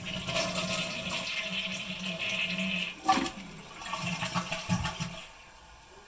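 2007 Kohler Wellworth toilet flushing with its tank lid off: water rushes out of the tank for about five seconds, with a sharp louder surge about three seconds in, then it drops to a quieter steady flow of water.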